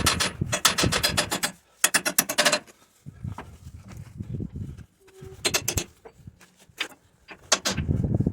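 Hand-tool work during a forklift repair: several short runs of rapid clicking and scraping, separated by brief pauses.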